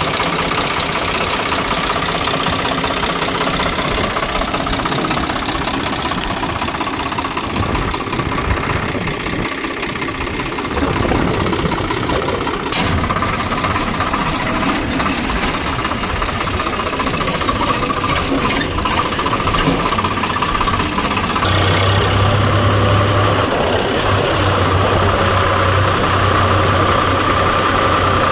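Diesel engine of heavy machinery running continuously during loading work. The sound changes about halfway through, and a deeper steady hum comes in near the end.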